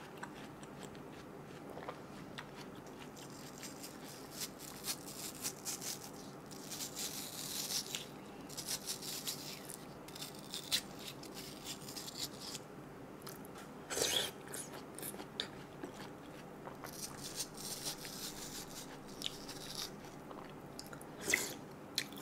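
Watermelon being chewed close to a microphone: wet biting and chewing with scattered crunchy crackles.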